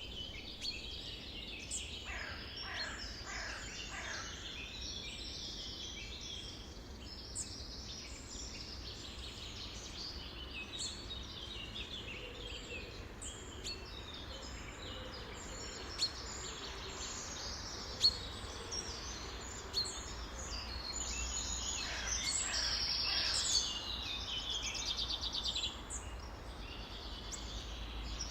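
Many songbirds singing and calling at once, a dense chorus of overlapping chirps, trills and falling whistled notes, with a few sharp loud notes in the second half. A steady low rumble runs underneath.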